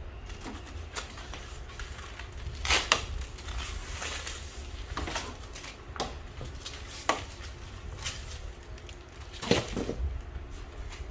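Irregular clicks, taps and knocks of hard objects being handled, loudest as a double knock about three seconds in and again near the end, over a steady low hum.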